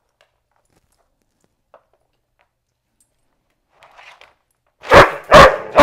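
Australian Shepherd in a wire crate barking three times in quick succession about five seconds in, after near silence. These are sharp reactive barks at the handler sitting close to the crate.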